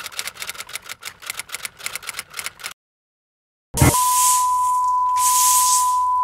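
Outro sound effects: rapid typewriter-style clicking, about five or six clicks a second, that stops dead. After a second of silence comes a sharp hit, then a steady high beep over static hiss.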